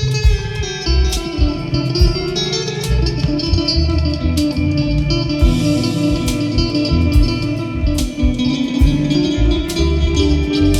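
Instrumental break of a live blues song: electric guitar playing sustained, shifting melody lines over bass and drums.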